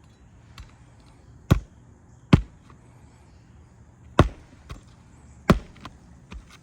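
Roofing nails being driven into an asphalt shingle on the roof deck: four loud, sharp strikes with a few lighter taps in between.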